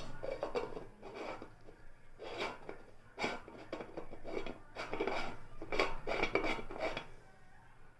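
Top cover of an Atomberg ceiling fan being taken off and refitted tightly by hand, with irregular clicks, clatter and scraping of the cover and housing that die away near the end.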